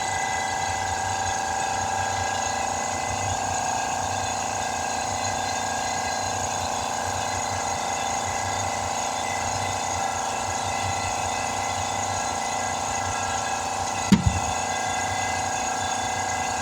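Air compressor running steadily while a tire is inflated on its rim, then one sharp, loud bang about fourteen seconds in as the tire bead pops onto the rim, described right after as a little violent.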